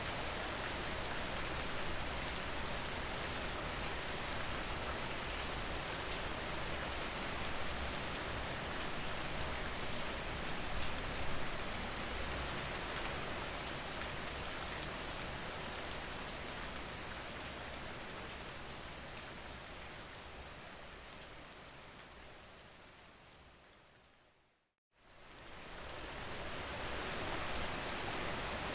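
Steady rain falling. It fades out gradually to a moment of silence near the end, then fades back in.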